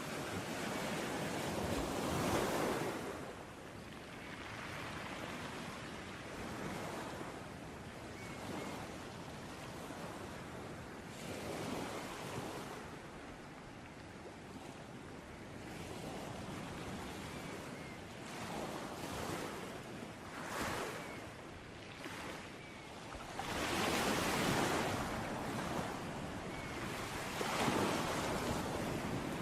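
Sea waves breaking and washing on a shore, in irregular surges a few seconds apart with softer wash between them.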